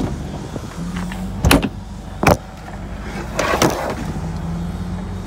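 Car engine idling steadily, with two loud sharp knocks about one and a half and two and a half seconds in, then a short clatter.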